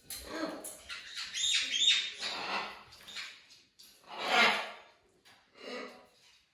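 Pet parrot giving a series of short calls, with loud ones about two seconds in and again a little past four seconds.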